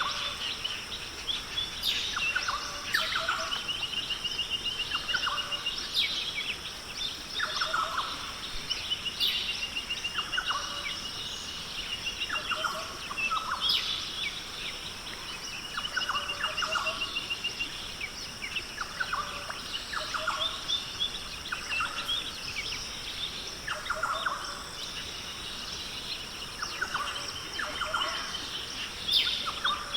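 Australian rainforest birds calling over and over, short phrases about every two seconds with rattling trills mixed in, over a steady high-pitched buzz.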